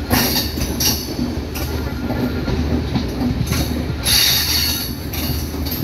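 Train running along the track, heard from aboard: a steady rumble of wheels on rails, with high-pitched wheel squeals that flare up several times, loudest about four seconds in.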